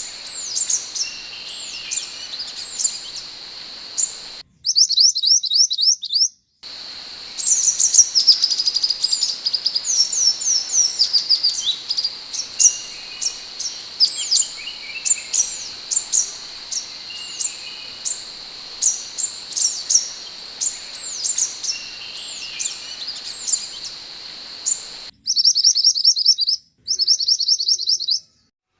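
Sepah hutan (scarlet minivet) song: a run of short, thin, high whistled notes, many dropping in pitch, a few each second over a steady high whine. Twice the sound cuts abruptly to a faster, denser trill of rapidly repeated notes, then back.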